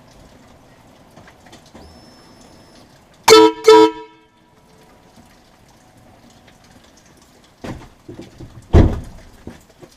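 Two short back-to-back blasts, about three seconds in, of a compressor-fed air train horn mounted on a 2008 Ford Ranger pickup, sounding a chord of several tones. Near the end come two thumps from the camera being knocked around.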